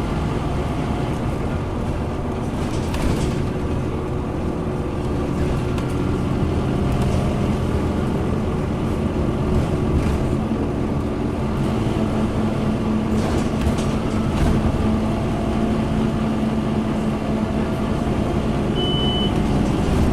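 Scania N230UD Omnicity bus running along the road: a steady engine drone and road rumble, with a short high beep near the end.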